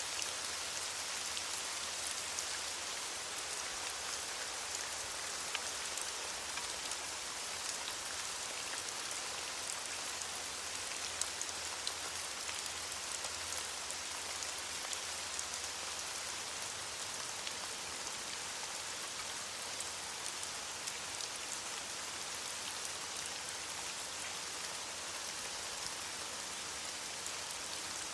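Steady rain falling on leaves, an even hiss dotted with the small ticks of individual drops.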